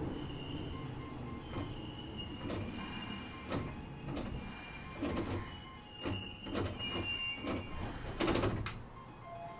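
Keisei 3700 series electric commuter train heard from inside the car, slowing as it nears a station stop. Its wheels squeal in short high tones that come and go, with a run of irregular knocks over rail joints and points; the loudest knocks come about eight seconds in.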